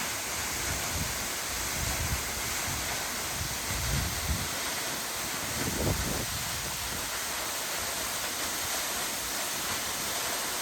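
Steady rushing hiss of Double Falls, a 178-foot waterfall, plunging into the creek. A few brief low rumbles of wind on the microphone come about two, four and six seconds in.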